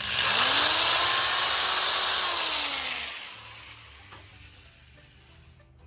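Electric drill boring into a broken exhaust stud in a Dodge M37 engine. It starts suddenly, runs for about three seconds with its motor pitch rising and then sagging, and winds down.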